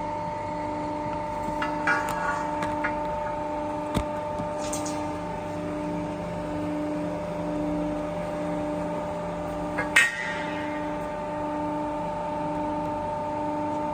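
Hydraulic rectangular-tube bending machine running with a steady hum and a lower tone that pulses about one and a half times a second, with a few metal knocks, the loudest about ten seconds in.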